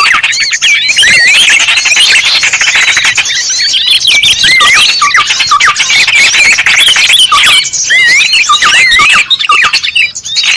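Dense chorus of small birds chirping and twittering, many quick swooping whistles and squeaky calls overlapping without a break, as played in a bird-lure recording for small birds.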